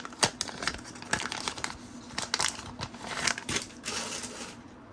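A trading card pack's wrapper crinkling while the cards are handled: a run of short crinkles and light clicks.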